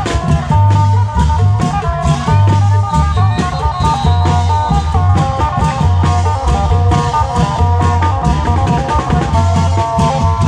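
Isan klong yao long-drum band music: a steady drum beat with deep, repeating bass notes and a melody running over it.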